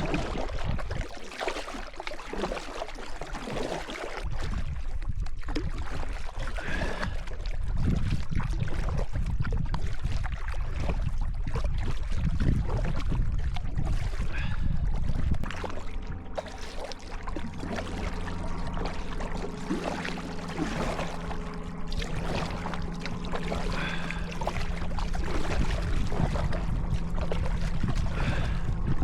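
Kayak paddling: paddle strokes splashing and water trickling and dripping off the blades. About halfway through a steady low hum comes in and stays.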